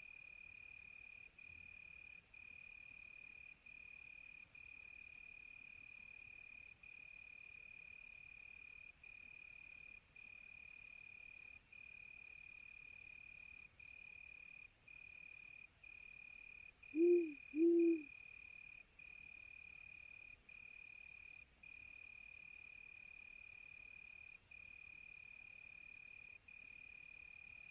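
Crickets trilling steadily on one high pitch, with two short low owl hoots, about a second apart, a little past halfway.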